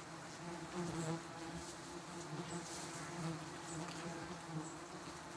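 Giant honeybees buzzing in a mass, a steady droning hum that swells and eases.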